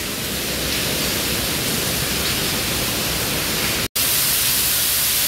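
Steady hiss of a heavy rainstorm, with rainwater pouring in and splashing onto the floor of an unfinished building. The sound breaks off for an instant about four seconds in and comes back slightly louder and brighter.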